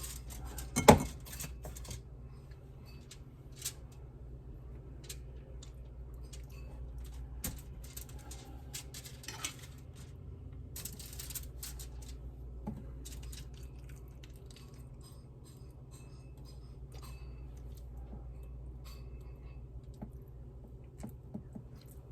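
Scattered clinks and taps of a spoon against a bowl and dish while filling is scooped into bell peppers, the loudest clink about a second in, over a steady low hum.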